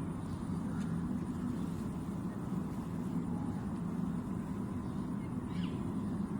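Steady low hum, even throughout, with a faint short chirp about five and a half seconds in.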